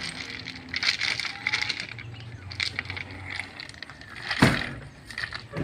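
Scattered metallic clinks and knocks over a low engine hum that fades after about three seconds, then one loud heavy thud about four and a half seconds in and a smaller knock at the end.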